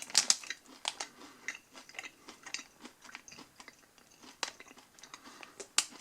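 A dry, crunchy Nature Valley oats-and-honey granola bar being bitten and chewed: a run of sharp crunches loudest at the start, then scattered smaller crunches, with a louder one near the end.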